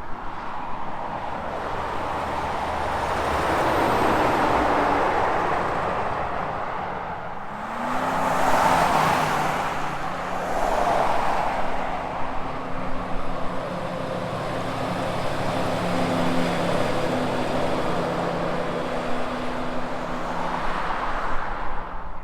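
Highway traffic passing, with a tyre-and-engine rush that swells and fades. About eight seconds in, a semi truck's diesel engine rises in pitch and then holds a steady drone for over ten seconds.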